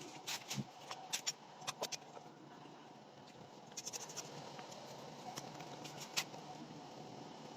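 Light, scattered clicks and scrapes as a dug-out wasp nest's comb is handled and picked through, with a quick run of ticks about four seconds in.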